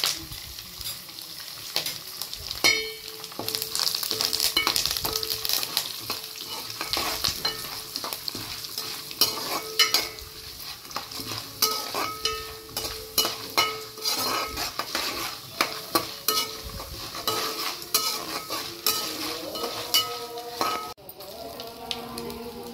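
Peanuts, curry leaves, dal and mustard seeds sizzling in hot oil in a metal pan as a tadka (tempering), with a spatula stirring and scraping against the pan in many sharp clicks. Near the end the sizzle drops to a quieter level.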